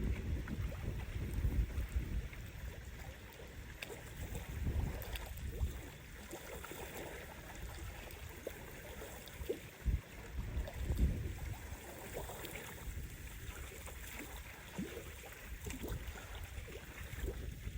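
Gusty storm wind buffeting the microphone with a low rumble, over choppy lake water splashing and lapping at the shore. A single knock sounds near the middle.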